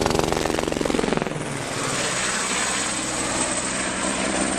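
Helicopter coming in to land close by, its rotor blades chopping rapidly over the engine's whine. About a second in, the low chop falls away and a steady rushing hiss takes over.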